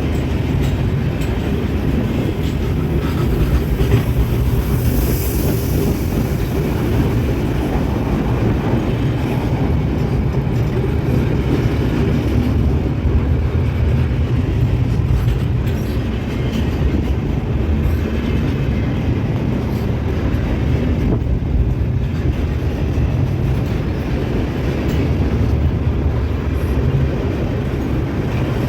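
A long freight train's wagons rolling past at steady speed, a continuous low rumble with wheel clatter on the rails.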